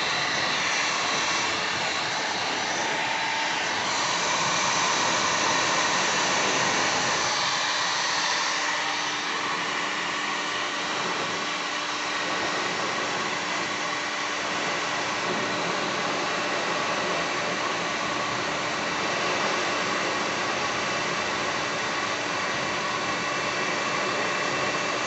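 Electric heat gun running steadily, a constant rushing hiss of its fan blowing hot air, slightly brighter during the first eight seconds or so.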